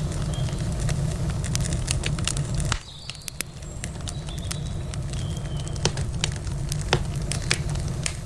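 Wood campfire crackling, with sharp irregular pops and snaps over a low steady rumble. About three seconds in, the low rumble suddenly drops away and the pops carry on over a quieter background.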